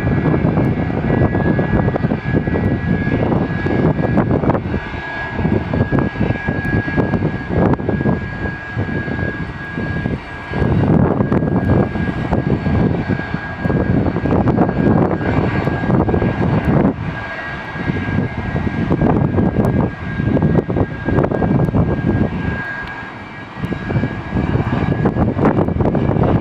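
Airliner engines running close by at high power, a steady high whine over a heavy rumble that swells and dips every few seconds.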